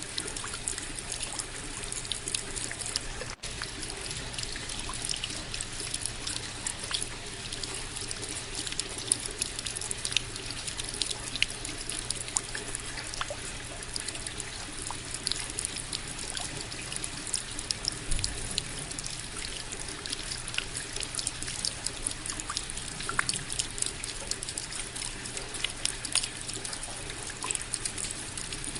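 Steady rain, with many separate drops pattering close by over a constant wash of falling water. It drops out for a split second a few seconds in.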